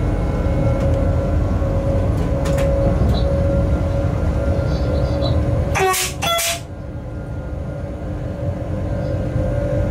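Freight train running along the line heard from the cab, a steady rumble with a steady hum under it. About six seconds in come two short high toots, after which the sound briefly drops in level.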